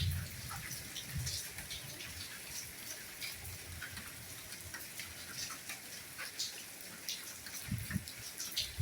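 Soft rain falling steadily, with individual drops ticking close by and a few dull low thuds scattered through, more of them near the end.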